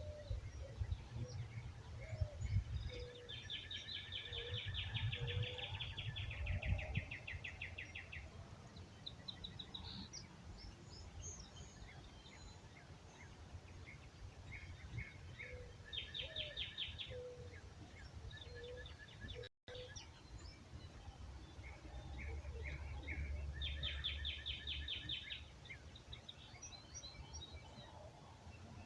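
Birds singing at sunrise: a rapid trilled song comes three times, with soft, short, low cooing notes between, over a low rumble of wind on the microphone.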